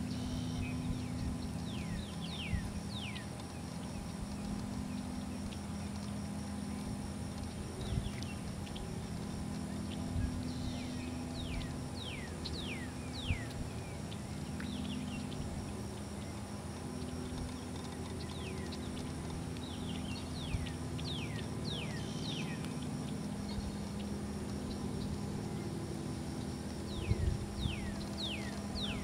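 A bird calling in bursts of short, quick whistled notes that slide downward, several in a row, recurring every few seconds over a steady low hum. A few faint knocks are heard, one about eight seconds in and a couple near the end.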